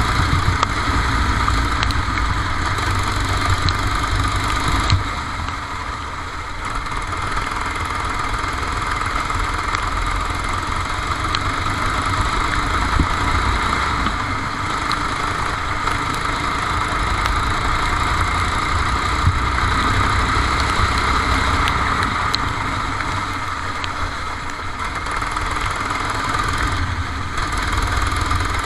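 Go-kart engine running continuously, heard onboard, easing off in level twice: about five seconds in and again near the end.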